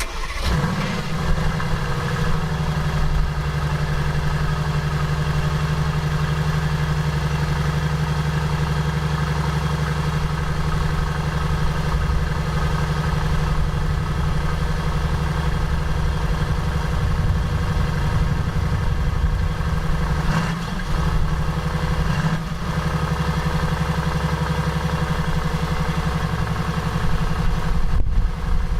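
The 4.0-litre twin-turbo V8 of a 2018 Mercedes-AMG GT S firing up from cold and settling into a steady fast cold idle through its exhaust. The note wavers briefly twice about two-thirds of the way through.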